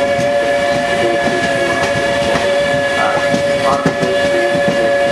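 A train's horn held on one steady chord of several pitches, with railway rumble and clatter underneath.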